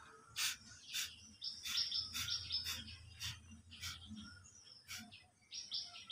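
Small birds chirping: a steady run of short, high chirps about every half second.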